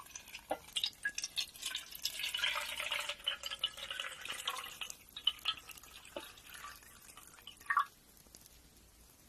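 Nail grinding: scattered light clicks and taps, with a denser stretch of grinding between about two and five seconds in.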